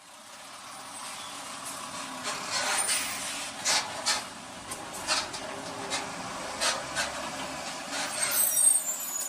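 Road traffic noise heard through a dashcam: a steady hiss with several sharp knocks, and a brief high squeal near the end.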